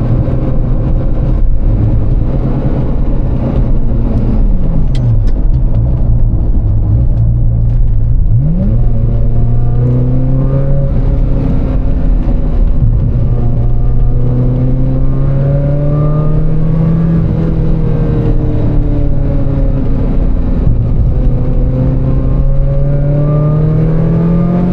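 Ferrari F355's 3.5-litre V8 running under way, its pitch rising and falling gently with the throttle over a steady low road rumble. There are two quick pitch sweeps, about four and eight and a half seconds in.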